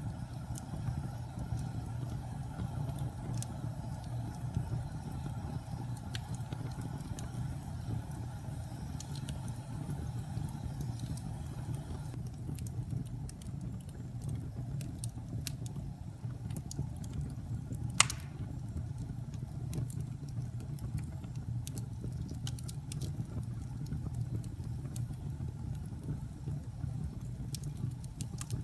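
Wood fire burning in a fireplace: a steady low rumble of flames with scattered small crackles and one loud sharp pop about two-thirds of the way through.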